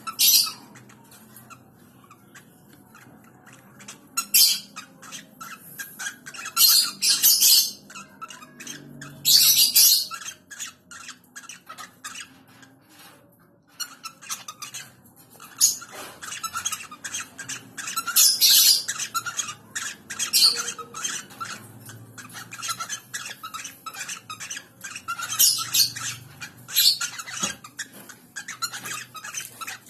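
Birds squawking: harsh, scratchy calls that come again and again at irregular intervals, loudest about a second in, around 7, 9, 18 and 25 seconds in, with softer chattering calls between them.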